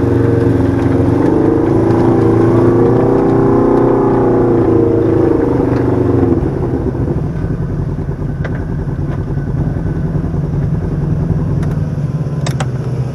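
Side-by-side UTV engine running under throttle, its pitch wavering slightly, then dropping to a lower, quieter note about six seconds in. A few sharp clicks near the end.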